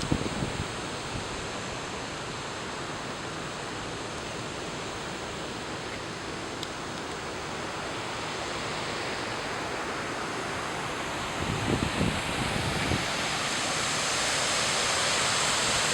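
Steady hiss of rain falling on a lake, growing louder near the end, with low gusts of wind buffeting the microphone at the start and again about twelve seconds in.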